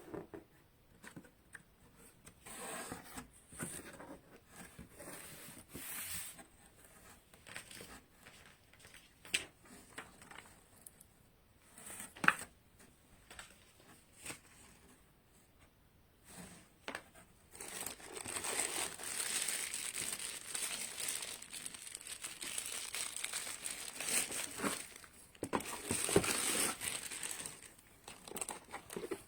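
Packaging crinkling and rustling as it is handled, with scattered clicks and knocks; the crinkling turns denser and more continuous a little past halfway.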